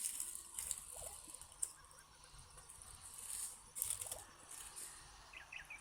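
Dry leaves rustling and crackling in short bursts, with one sharp click about a second and a half in, as a lighter is struck to light oil-soaked toilet-paper kindling for a campfire. Near the end a bird calls in a run of quick chirps.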